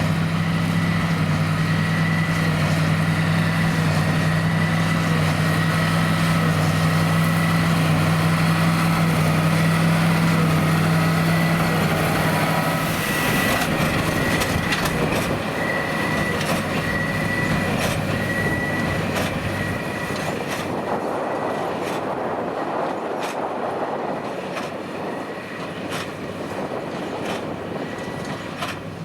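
John Deere 8330 tractor's six-cylinder diesel working under steady load as it pulls a Krone BigPack square baler baling wheat straw, with a steady high whine over the engine hum. About halfway through the engine note fades, leaving the baler's mechanical clatter, with sharp knocks about once a second near the end.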